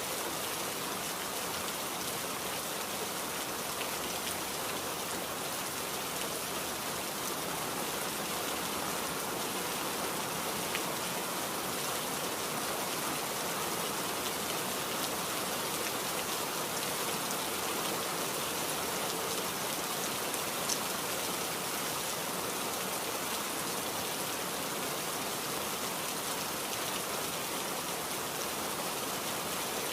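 Steady rain falling, an even, unbroken hiss of drops on surfaces, with one brief louder tick about two-thirds of the way through.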